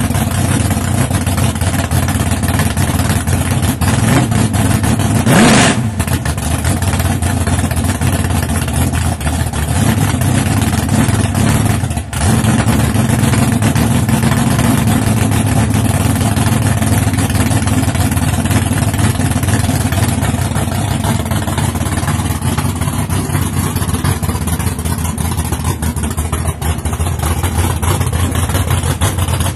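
Drag race car engines running, loud and steady, with a brief louder burst about five seconds in.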